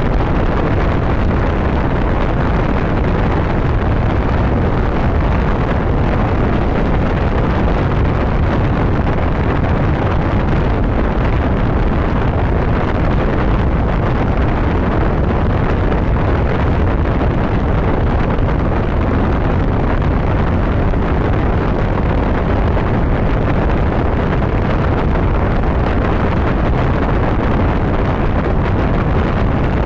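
Steady, loud wind rush on the microphone of a motorcycle riding at highway speed, with the bike's engine and road noise running underneath.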